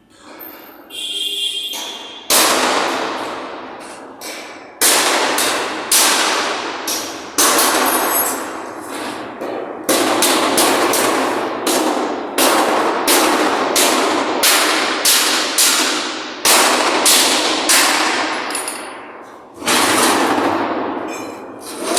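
Sheet-metal ductwork being struck over and over with a hammer, each blow a loud metallic clang that rings out and fades, coming unevenly about one to two a second.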